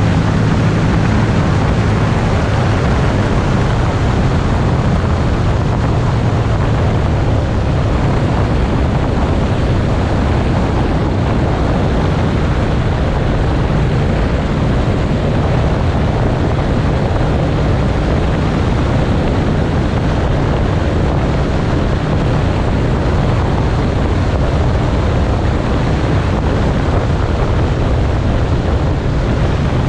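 Motorcycle engine running at a steady cruising speed, with heavy wind rushing over the microphone while riding.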